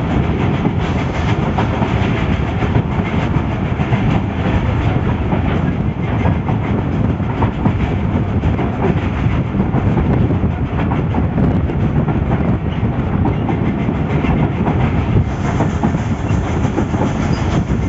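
Passenger train running at speed, heard from inside a coach at an open window: a steady rumble and clatter of the wheels on the rails.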